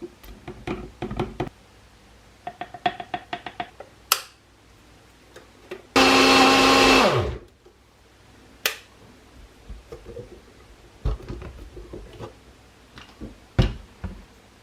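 A small electric motor runs loudly for just over a second, about six seconds in, then winds down with its pitch falling as it stops. Scattered clicks and knocks come before and after it.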